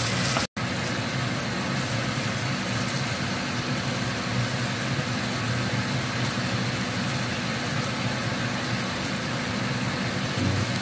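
Oil sizzling in a wok as a tomato-onion masala fries, over a steady low hum. The sound cuts out completely for a moment about half a second in, then carries on unchanged.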